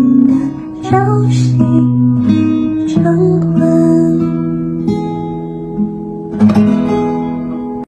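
Acoustic guitar playing the closing bars of a slow song, plucked notes ringing out. A final strum near the end rings on, then the sound cuts off suddenly.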